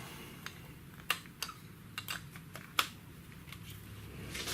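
Scattered light clicks and taps of small tools being handled, likely the soldering kit and iron, about half a dozen irregular clicks with the clearest a little after one second and near three seconds, over a faint steady low hum.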